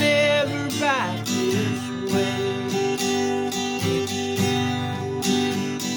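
Acoustic guitar strummed in a steady rhythm as a folk song ends. At the start a held sung note with vibrato slides down and stops about a second in, leaving the guitar alone.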